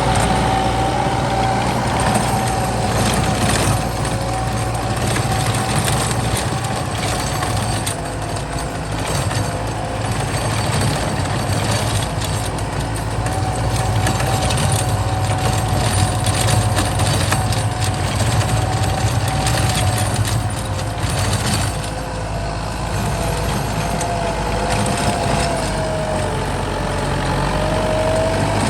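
Kubota M8540 tractor's four-cylinder diesel engine running steadily under load while ploughing, with a constant whine whose pitch sags and recovers slightly near the end.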